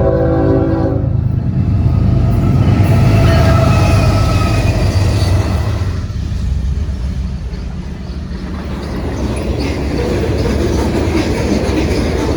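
A freight train passing: the diesel locomotives' horn cuts off about a second in, the three lead diesel locomotives rumble by, and then the freight cars roll past with wheel clatter over the rail joints.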